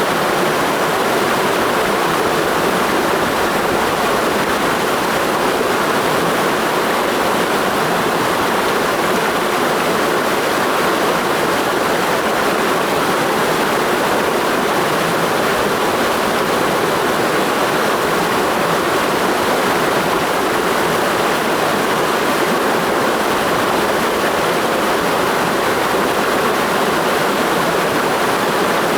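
Mountain stream flowing: a steady rush of water that does not change.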